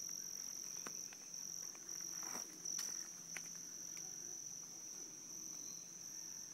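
Crickets trilling steadily in a high, continuous tone, with a few faint clicks.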